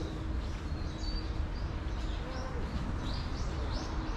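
Small birds chirping in short, high, repeated calls, several a second, over a low, steady background rumble.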